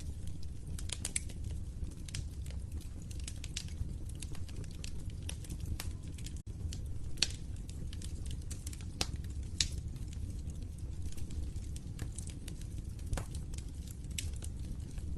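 Wood fire crackling in a fireplace: irregular sharp pops and snaps over a steady low rumble of the flames, with a momentary dropout about six and a half seconds in.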